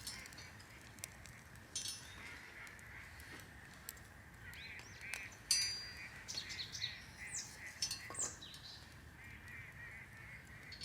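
A flock of wild geese honking, with many overlapping calls all through and a cluster of louder, higher calls around the middle.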